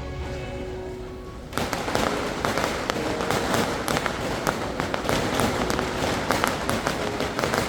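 Fireworks crackling: from about a second and a half in, a dense, continuous run of sharp pops and crackles, with music underneath.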